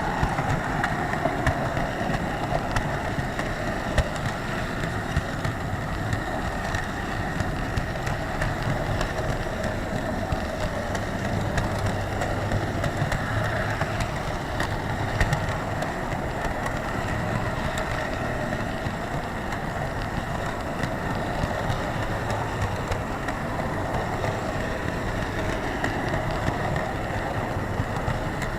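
HO scale model train rolling along the track, heard close up from a wagon. It makes a steady rumble with scattered small clicks from the wheels on the rails.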